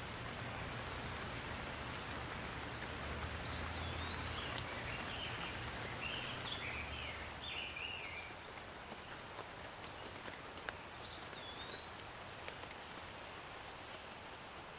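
Steady rain falling, with birds calling over it: a run of chirping calls in the first half and another short call near the end. A low rumble under the rain fades out about halfway through.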